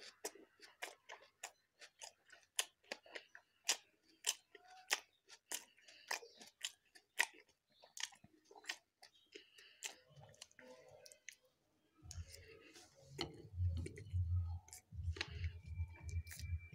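Close-up chewing of fried, stuffed Mughlai paratha: crisp crunching and smacking at about two to three a second. About twelve seconds in, a low pulsing hum comes in and becomes the loudest sound.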